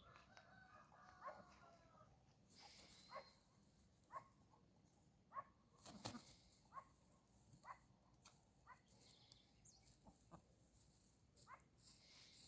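Faint, soft clucking from a pair of game fowl (fighting-breed chickens) foraging: short low clucks roughly once a second.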